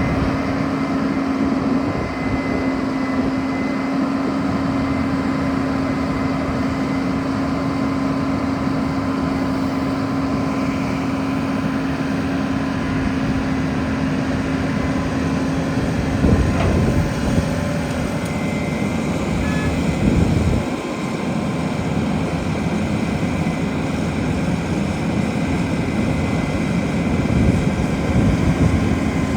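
2004 Gradall XL4100 II wheel excavator running steadily, with a constant tone over a low rumble. A few brief louder surges come past the middle and near the end.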